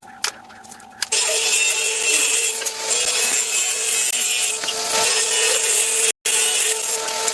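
A tool cutting or working wood, a steady, hissing, scraping sound with a faint hum in it, starting about a second in and breaking off briefly near the end.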